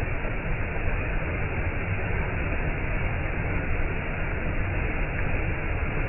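Waterfall rushing: a steady, unbroken noise of falling water, heaviest in the low end.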